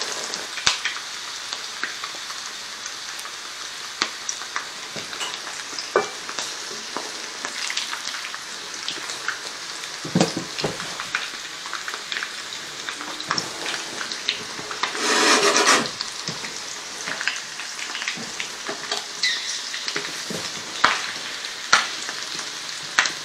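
Breaded chicken thighs shallow-frying in about a quarter inch of avocado oil heated to around 350 °F in a skillet: a steady sizzle with scattered sharp crackles and pops. About two-thirds of the way through the sizzle swells briefly into a louder rush for about a second.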